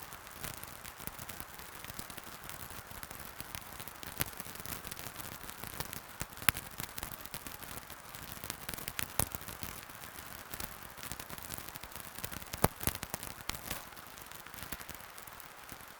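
Wood fire burning in a fireplace, crackling steadily with irregular sharp pops over a soft hiss; two louder pops stand out, one about six seconds in and one near thirteen seconds.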